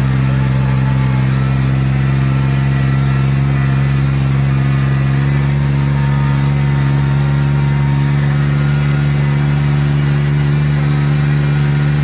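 Kubota rice transplanter's engine running at a steady speed: a constant, even hum whose pitch does not change.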